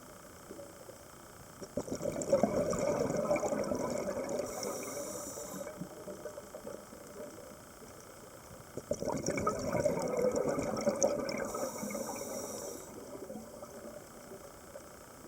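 Scuba diver breathing through a regulator underwater: two long bursts of exhaled bubbles rumbling and gurgling, each lasting a few seconds, with a thin hiss of the inhale between them.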